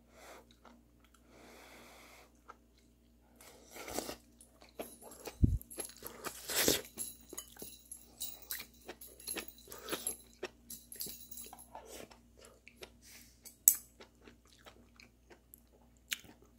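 A person chewing steamed beef tripe close to the microphone: irregular wet crunches and clicks that start a few seconds in, come thickest in the middle, then thin out near the end.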